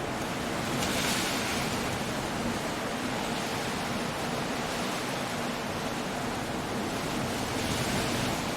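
Coastal storm ambience: a continuous rush of surf and wind, swelling twice, about a second in and near the end, as waves break.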